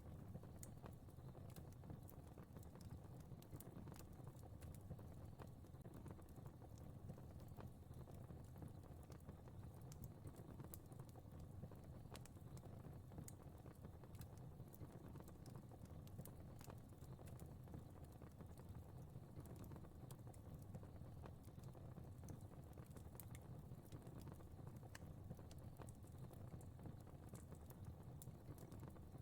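Fire burning in a fireplace: a faint, steady low rumble of flames with frequent small, irregular crackles and pops.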